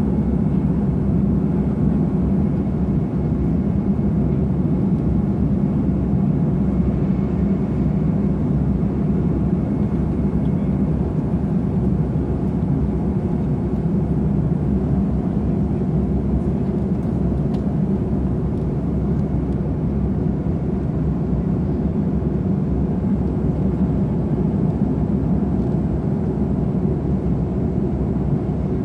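Airbus A330 in flight above the clouds: a steady, unchanging low rumble of engines and airflow.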